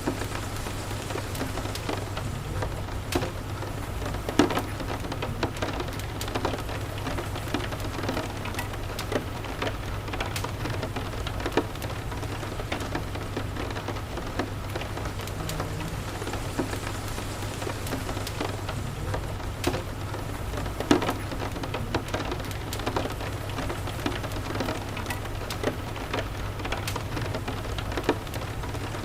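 Steady rain, with a low steady rumble underneath and a wood fire crackling in scattered sharp pops, two of them louder, about four seconds in and about twenty-one seconds in.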